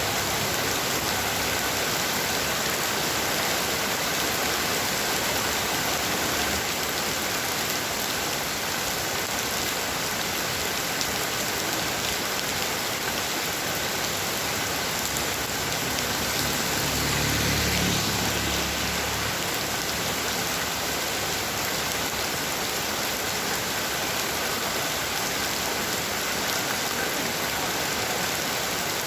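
Heavy rain falling steadily at night, a dense even downpour. About two-thirds of the way through, a brief low rumble swells and fades.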